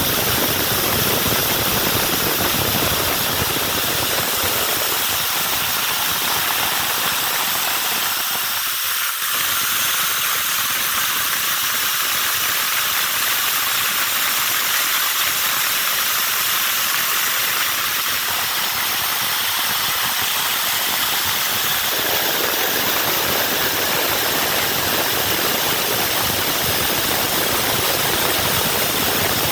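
CNC plasma cutter's torch cutting sheet steel, a loud steady hiss of the plasma arc and air. The deeper rumble under the hiss drops away for a stretch in the middle, then returns.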